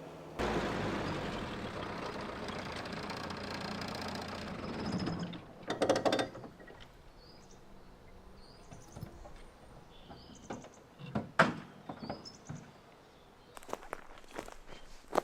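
A car running with a steady rumble for about five seconds, then a loud knock or two like a car door shutting. After that, faint bird chirps and scattered sharp clicks and steps.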